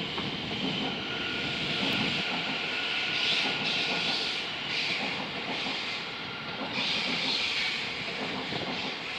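A train running through the station: a steady rush of wheels on rail that swells and eases about once a second, with a faint steady whine.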